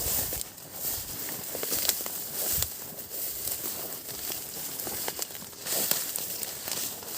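Irregular crackling and rustling, with short soft clicks scattered throughout.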